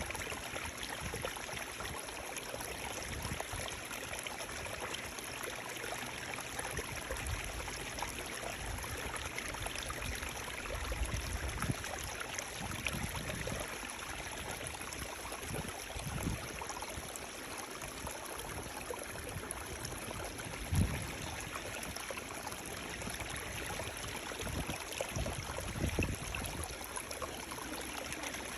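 Running water flowing steadily with an even rushing sound, broken by a few brief low thumps.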